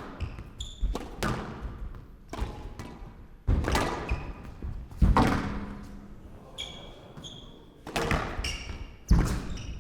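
A squash ball being struck by rackets and smacking off the court walls during a rally: about eight sharp cracks and thuds at irregular spacing, ringing in the hall. Short high squeaks come between the hits, typical of players' shoes on the court floor.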